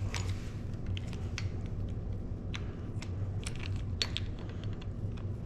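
Scattered small clicks and taps of hand tools and bicycle parts being handled during assembly, over a steady low hum.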